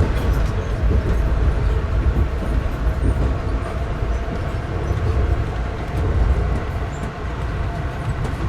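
Steady rumble of a moving passenger train heard from inside a coach: its wheels running on the rails.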